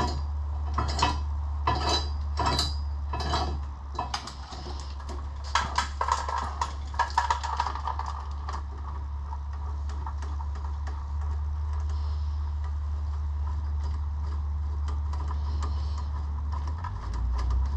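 Ratchet wrench clicking as a long bolt is backed out of a Mk2 GTI's engine support brace, the clicks coming in runs about twice a second, over a steady low hum.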